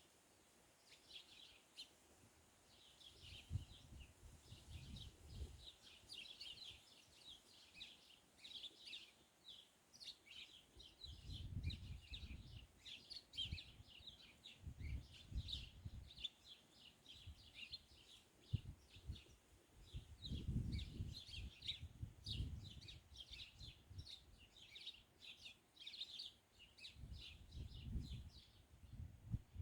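Small birds chirping in a fast, continuous chatter of short high notes. Low gusts of wind rumble on the microphone several times, at moments louder than the birds.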